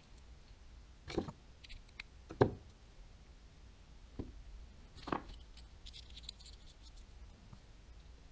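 A few sharp clicks and knocks of small reel parts and tools being handled while working on a baitcasting reel, the loudest about two and a half seconds in, with faint light ticks a little later.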